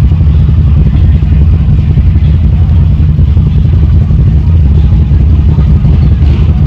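Four-wheeler (ATV) engine running steadily under way, loud and low, with no let-up.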